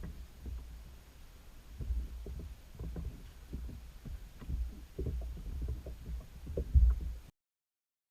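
Irregular low thumps and knocks, loudest just before they stop abruptly about seven seconds in.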